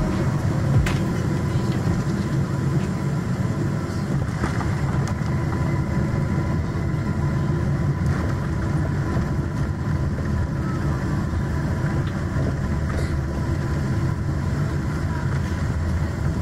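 Steady rumbling noise of a moving vehicle heard from inside, with a faint steady whine.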